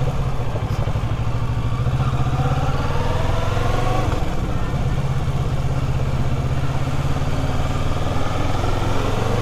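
Kawasaki Ninja 650's parallel-twin engine running as the bike rides off, climbing in pitch for a couple of seconds, dropping back about four seconds in, then running steadily.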